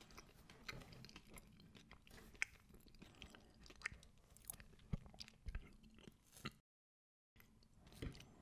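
Faint chewing and mouth sounds of someone eating soft cake, with scattered small clicks. The sound drops out to dead silence for under a second about two-thirds of the way through, and near the end a metal fork scrapes into cake on a ceramic plate.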